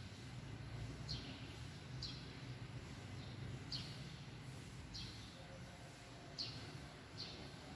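A small bird chirping faintly, each call a single short chirp falling in pitch, repeated every second or so over a low steady hum.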